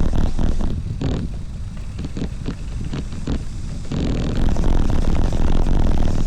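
Wind buffeting a moving rider's camera microphone, a heavy low rumble, with rattling and clattering knocks from the bike over a rough surface; it eases a little in the middle, then picks up again.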